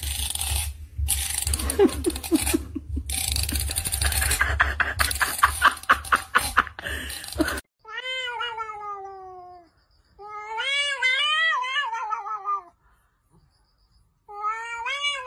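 Rough scratching and clicking noise for about seven seconds, then after a sudden cut a cat's long drawn-out yowls, three of them, each wavering up and down in pitch: a territorial caterwaul at another cat.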